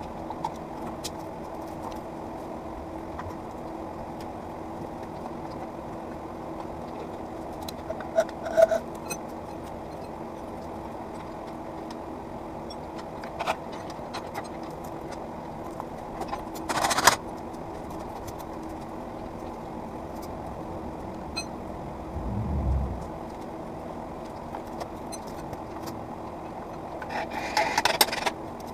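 Workshop sounds: a steady hum runs throughout, broken by a few short clinks and scrapes of tools or parts being handled, with a dull thump about two-thirds of the way through.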